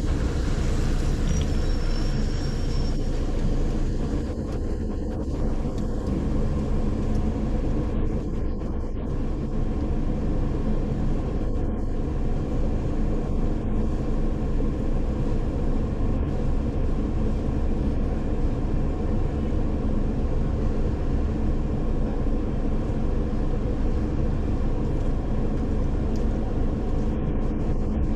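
Car being driven: a steady low rumble of engine and road noise, with a brief faint high whistle about two seconds in.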